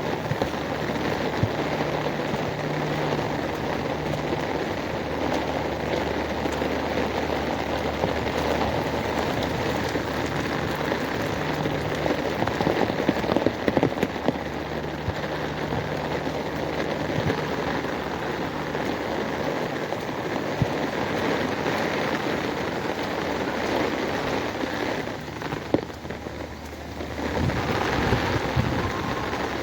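Heavy rain falling steadily, a dense, even hiss of drops hitting surfaces, with a steady low hum underneath. The rain eases briefly near the end before picking up again.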